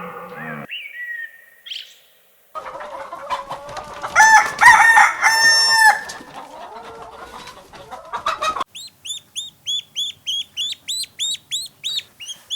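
A rooster crowing, two long held calls in the middle of a noisy farmyard stretch, followed after about nine seconds by a quick run of short, high-pitched chirping calls, about three or four a second.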